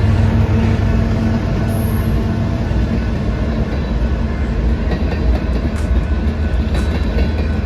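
Freight train rolling past close by: a loud, steady rumble of the cars on the rails, with sharp clicks from the wheels in the second half.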